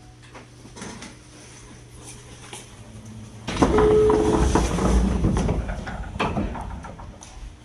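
Passenger doors of a JR Kyushu 817 series electric train sliding open at a station stop: a sudden loud rush of noise about three and a half seconds in, with a short steady tone at its start, dying away over about three seconds.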